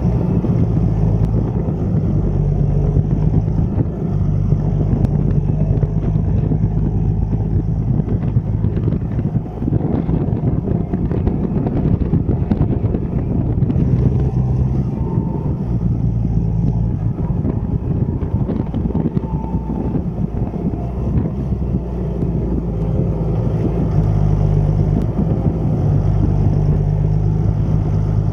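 Deutz-Fahr 6160 TTV tractor's six-cylinder diesel running with a steady low hum. For most of the middle it turns rougher and noisier before settling back to the steady hum near the end.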